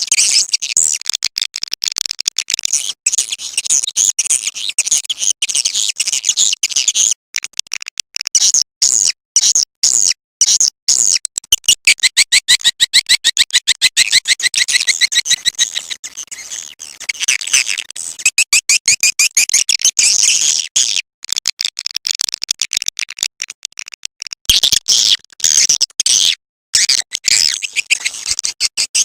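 Swiftlet lure-call recording: dense, rapid, high-pitched chirping twitters of edible-nest swiftlets, the kind of call played to draw the birds into a swiftlet house. The calls come in long runs broken by short gaps, most clearly a few seconds apart near the middle and again near the end.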